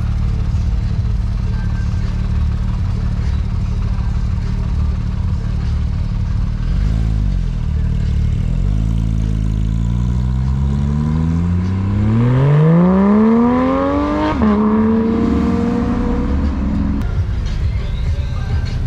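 Car engine, likely the Mitsubishi Lancer Evolution X's turbocharged four-cylinder, cruising with a low drone, then accelerating with its pitch rising steadily for about six seconds. The pitch drops suddenly at an upshift and holds steady before the engine eases back to a low drone.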